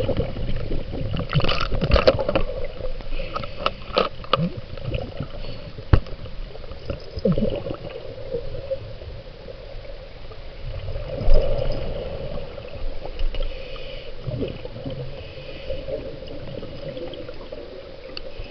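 Water gurgling and sloshing against the camera, with a steady hum and scattered sharp knocks, densest in the first few seconds and again about two-thirds of the way through.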